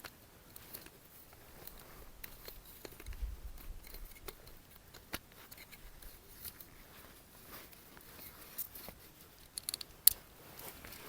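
Handling noise of a camera being set up: scattered small clicks and rustles, with a brief low rumble about three seconds in and one sharp click near the end.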